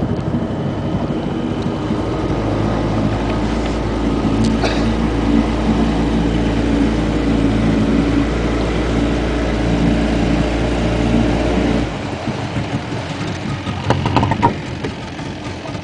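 Boat engine running, growing louder about two seconds in and dropping back suddenly about twelve seconds in.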